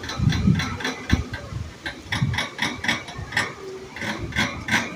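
Zebra dove (perkutut) calling: a rapid series of short staccato notes, about five a second, with a few low thumps near the start.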